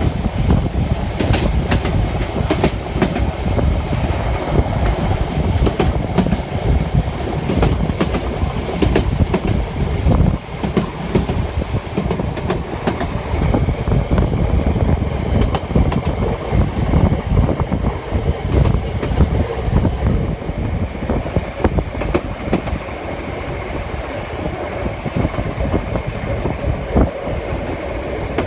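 A metre-gauge Harz narrow-gauge steam train running along the track, heard from aboard a coach. There is a steady heavy rumble of the wheels on the rails, with a rapid irregular clickety-clack of the wheels over the rail joints.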